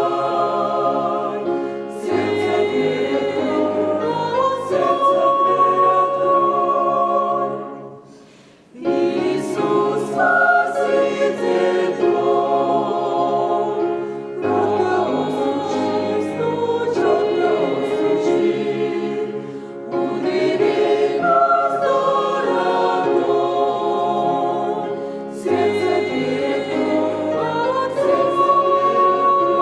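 Church choir singing a hymn in sustained phrases, with a brief break between phrases about eight seconds in.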